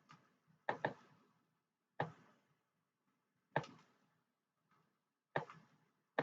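Computer mouse clicking: sharp single clicks every one to two seconds, with a quick double click near the start.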